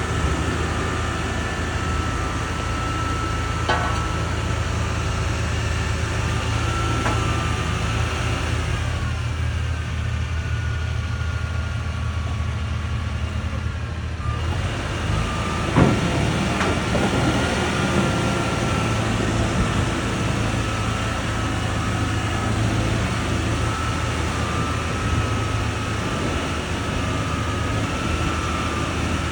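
Heavy diesel engine of a construction machine running steadily, easing off for a few seconds partway through and then picking up again, with a few sharp knocks.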